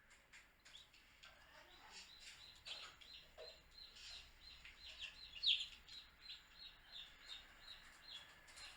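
Baby chicks peeping: a steady run of short, high peeps, several a second, with one louder peep about halfway through.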